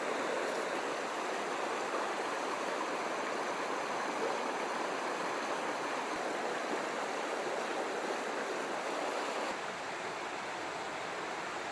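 Mountain stream water rushing over rocks, a steady hiss of running water that drops a little in level near the end.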